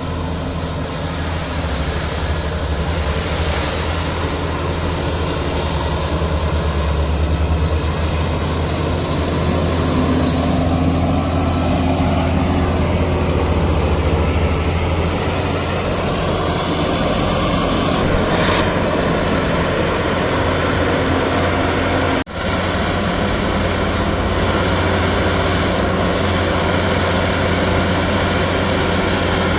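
Combine harvester engine running steadily, with a brief break in the sound about 22 seconds in.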